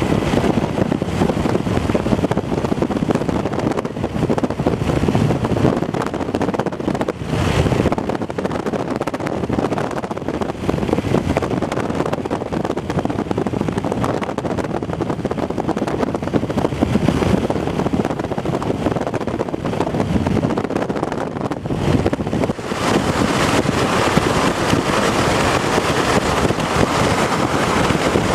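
Wind rushing and buffeting across the microphone in gusts, with a steady rumble underneath; the rushing grows brighter and a little louder about 23 seconds in.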